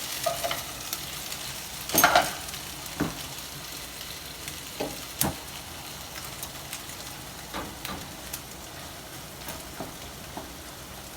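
Chicken pieces with garlic sizzling in oil in a frying pan, with a few sharp knocks of a utensil against the pan as the chicken is lifted out.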